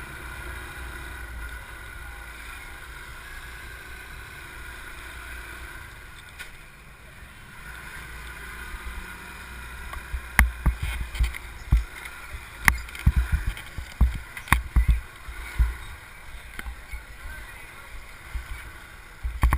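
Steady low rumble of a motorbike ride. From about halfway through come a series of sharp, irregular thumps and knocks.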